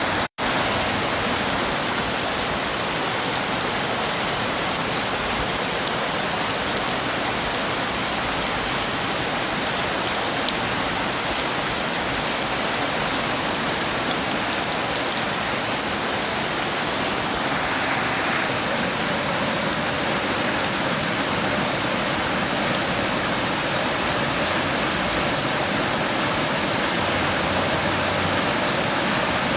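Heavy rain falling steadily, a dense even hiss of drops. It cuts out for an instant just after the start.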